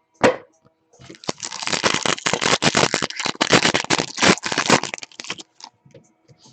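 Trading cards and a pack wrapper being handled, with a short click and then several seconds of dense crackling and clicking that fades out near the end.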